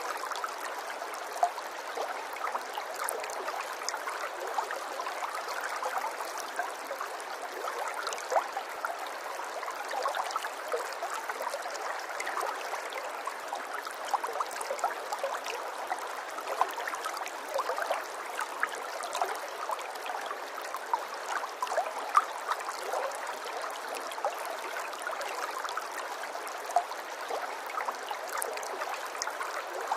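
Running water flowing steadily, with many small splashes and drips scattered through it.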